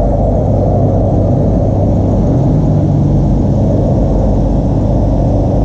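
A car engine running steadily, its sound mostly low-pitched and even in level.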